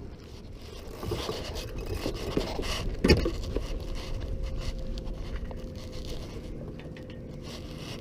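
Deck-handling sounds on a small sailboat being tacked: rope and gear scraping, with one sharp knock about three seconds in.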